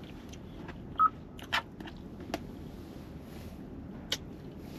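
A person eating: a few separate sharp mouth clicks and smacks over a low steady background hum, one of them about a second in with a short beep-like tone.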